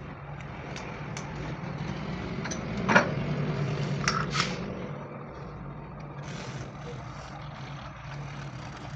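A vehicle engine running steadily, with scattered short knocks and clicks over it; the loudest knock comes about three seconds in.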